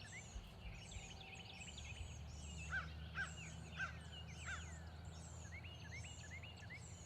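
Wild birds singing outdoors: a high falling call repeated about once a second over a chorus of small chirps, with four louder calls about half a second apart near the middle. A steady low rumble lies underneath.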